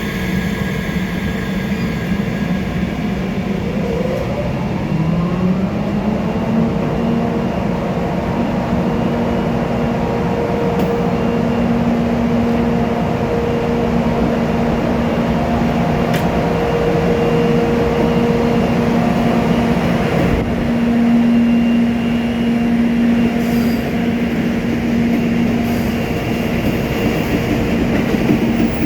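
EF64 electric locomotive hauling a train of E217-series cars out of the station: steady rolling rumble of the train, with a hum that rises in pitch about five seconds in and then holds steady as it gathers speed.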